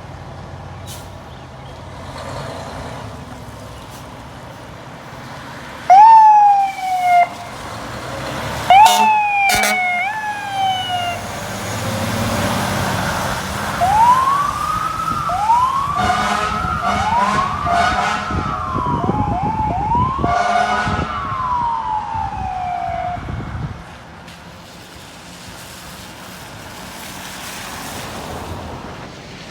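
Fire truck siren on a responding fire apparatus: two short, loud blasts falling in pitch about six and nine seconds in, then the siren sweeping up and down several times over the truck's engine rumble, before it fades away near the end.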